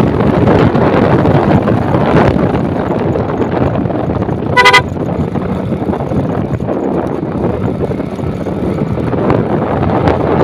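Wind rushing over the microphone of a moving motorcycle, with one short vehicle horn toot about halfway through.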